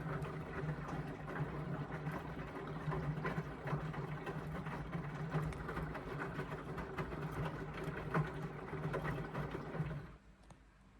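Indesit washing machine's drum motor running as the drum tumbles the wet laundry, with a steady low hum and swishing, clicking load; it stops about ten seconds in, the pause between tumbles in the wash.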